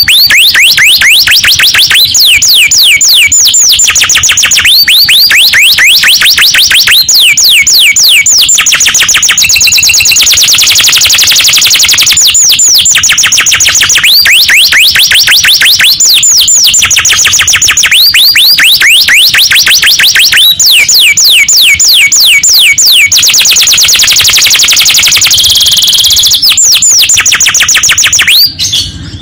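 Canary singing loudly and without pause in long rolling trills: runs of rapid downward-sweeping whistled notes alternating with fast, high buzzy trills. The song breaks off briefly near the end.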